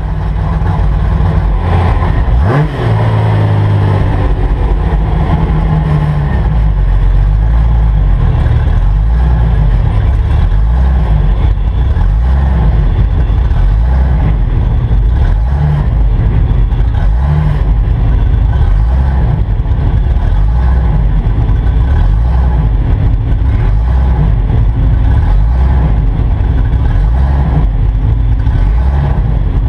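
Holden LC Torana GTR XU-1 race car's engine at racing revs, heard from inside the stripped cabin. The engine note rises quickly and breaks briefly about two and a half seconds in, then runs on loud and steady.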